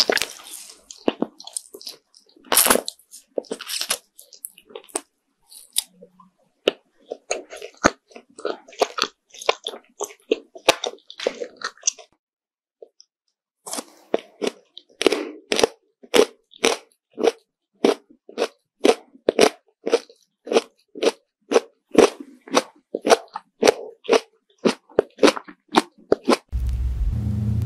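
Close-up chewing and biting of candy: irregular crunchy, wet clicks at first, then after a short pause steady chewing about twice a second. Near the end a steady low hum comes in.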